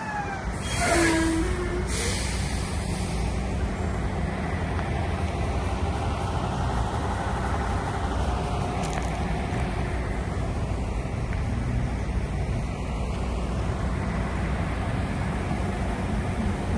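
Heavy diesel truck engine running steadily, with short hisses and a brief squeal about a second in.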